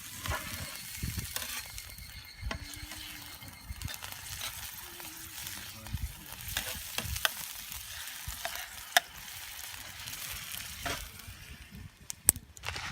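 Food sizzling in a campfire frying pan over a wood fire, a steady hiss with scattered sharp clicks and taps, the loudest about nine seconds in and just before the end.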